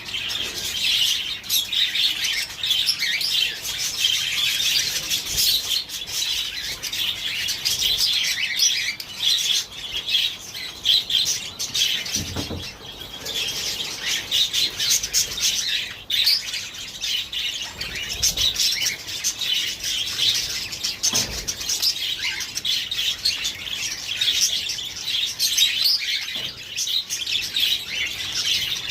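Budgerigar chatter and warbling: a continuous, dense stream of quick high chirps.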